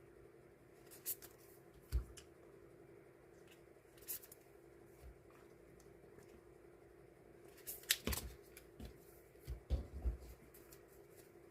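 Hands sorting and packing die-cut stickers: scattered light rustles and clicks of paper and plastic handling, busiest about eight to ten seconds in, over a steady low hum.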